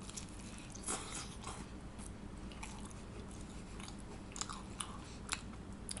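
A person biting into a slice of pizza and chewing it: a bite about a second in, then chewing with a scattering of small, sharp crunches and mouth clicks.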